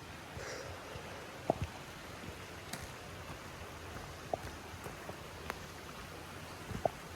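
A small mountain creek running steadily, with a handful of short sharp clicks scattered over it, the loudest about a second and a half in and near the end.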